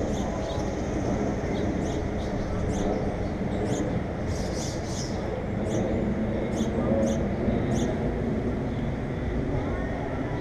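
Small birds chirping in short, high notes, now and then and in a brief cluster midway, over a steady low rumble.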